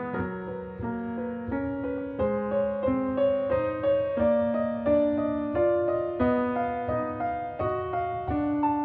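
Background music: slow, gentle piano, single notes and chords held and changing about every half second.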